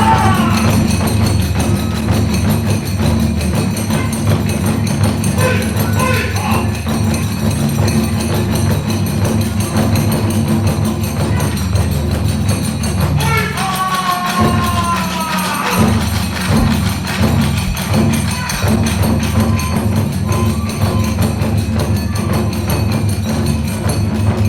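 Kagura accompaniment: taiko drums beating steadily under clashing hand cymbals, with a bamboo flute playing sliding phrases near the start and again about halfway through.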